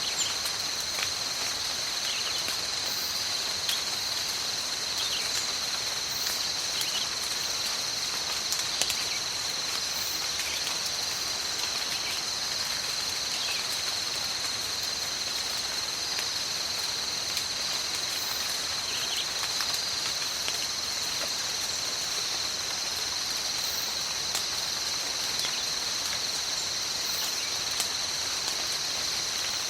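Steady tropical rainforest rain, an even hiss with scattered drips. Under it runs a continuous high-pitched insect drone that holds two steady pitches.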